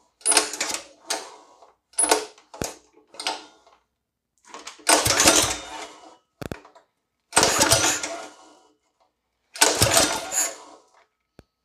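Predator 212 single-cylinder mini bike engine being pull-started by its recoil starter, about six pulls, the longest ones in the middle and near the end, turning over without catching: no fuel is getting to the engine.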